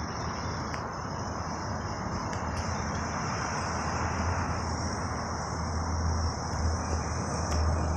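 Steady high-pitched insect chorus over a broad low rumble and hiss of outdoor background noise; the rumble swells slightly toward the end.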